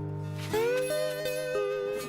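Background music on plucked guitar: a held chord, then about half a second in new notes that slide up into pitch and ring on.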